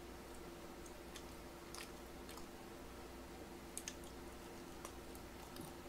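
Faint chewing and biting on braised pig's trotters (jokbal), with scattered soft mouth smacks, over a steady low hum.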